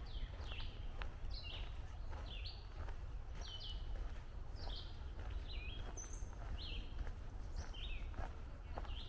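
A songbird repeating short, high, down-slurred notes about twice a second, over a steady low rumble, with faint footsteps on the trail.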